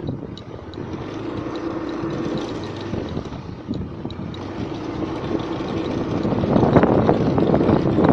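Motorcycle underway: its engine running steadily under wind rush on the microphone, the noise swelling louder over the last couple of seconds.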